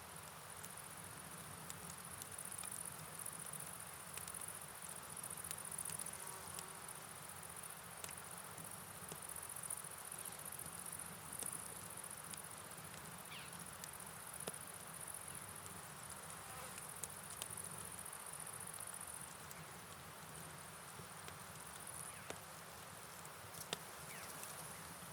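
Steady high-pitched chorus of night crickets over a soft, even hiss of rain and flowing water, with scattered light ticks.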